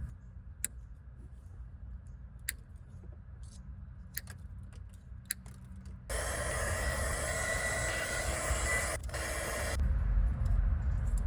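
A few sharp clicks as the excess tubing is trimmed. Then a mini heat gun starts, blowing with a steady hiss and a faint whine, shrinking heat shrink tubing over repaired headlight wires, and cuts off after about three and a half seconds.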